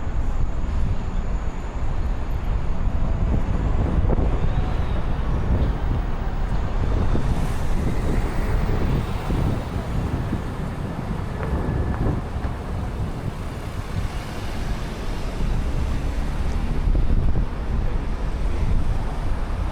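Downtown street traffic: cars and other vehicles passing in a steady rumble, with wind buffeting the microphone.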